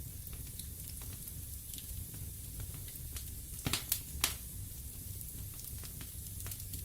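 Wood fire burning in a fireplace: a low steady rumble and soft hiss with scattered small crackles, and a quick run of three sharper pops from the burning wood just under halfway through.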